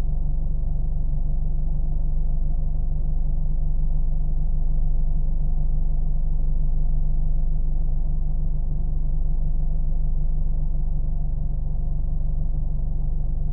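Steady, muffled low rumble of a car engine, running evenly without revving or changing.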